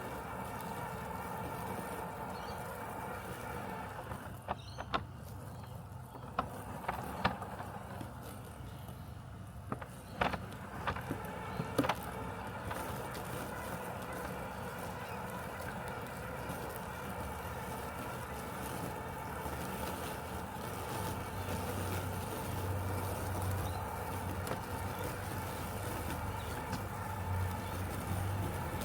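Robotic lawn mower running with a steady mechanical hum. Several short, sharp sounds stand out between about four and twelve seconds in, and a deeper hum grows in the last third.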